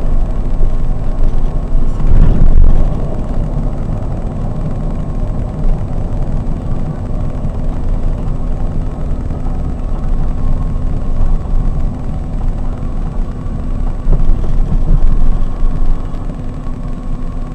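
Scania K420 double-decker coach under way: a steady low rumble of engine and road noise heard from the driver's cab, with a short jolt about two seconds in and a louder stretch near the end.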